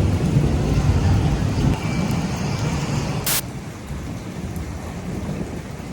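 Thunderstorm ambience on a flooded street: a steady wash of noise with a heavy low rumble that slowly fades, and one sharp click about three seconds in.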